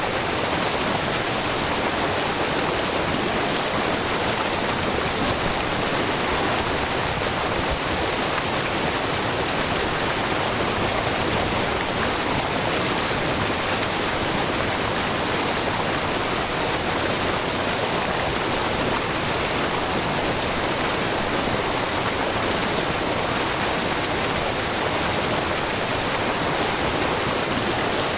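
Wide, low curtain waterfall of spring water pouring and splashing steadily over rock: an even rushing hiss with no change.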